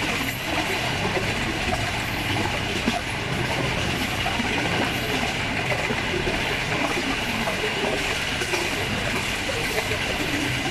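Passenger train running fast on jointed track: a steady, loud rumble and rattle of wheels and coaches.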